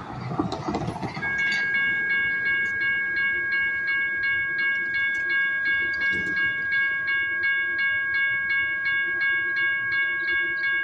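Rail warning bell ringing rapidly and steadily, about three strikes a second, at a light rail line. It starts about a second in, after a brief rush of train noise.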